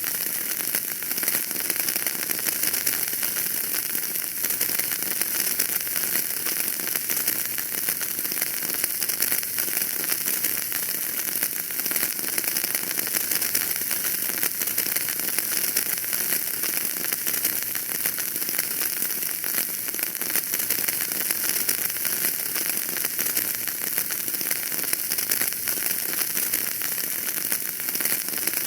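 Wood fire burning in a fireplace, crackling steadily with a dense run of small pops over a constant hiss, with no single loud pop standing out.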